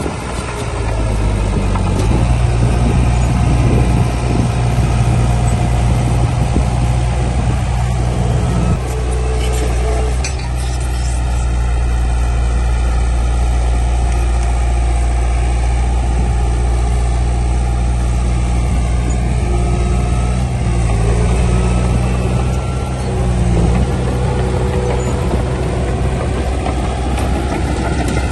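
Heavy diesel engine of earthmoving machinery running steadily with a deep, low drone.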